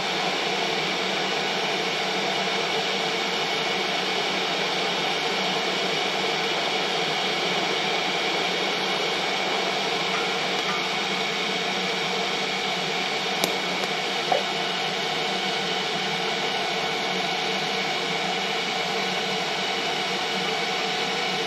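Steady hiss and hum of TIG welding equipment running, holding even throughout, with two short clicks about two-thirds through.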